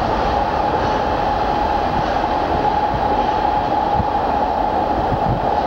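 Freight train running on through the rail tunnel, a steady rumble heard inside the tunnel, with an occasional low thump from the wheels.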